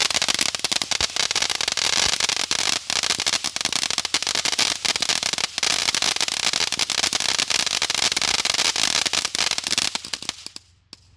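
Consumer firework giving off a loud, dense crackle of rapid tiny pops, which stops abruptly about ten and a half seconds in.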